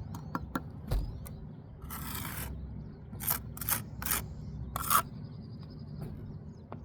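Mason's trowel working brick and mortar: a few light taps, one longer scrape, then a quick run of five short scraping strokes.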